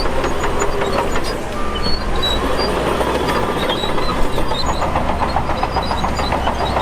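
Shantui DH17 crawler bulldozer working, its diesel engine a steady low drone under a continuous clanking of steel tracks, with short high squeals from the track running gear scattered throughout.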